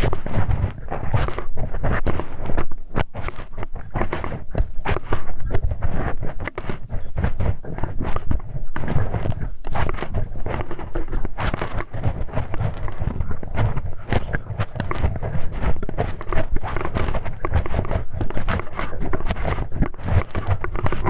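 ASMR ear-cleaning sounds: a tool scraping, rubbing and tapping in the ear of a binaural microphone, a dense, crackling stream of scratches and soft thuds.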